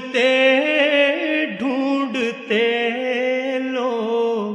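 Unaccompanied voice singing a naat, drawing out long held notes with small ornamented turns and wavering, with no clear words.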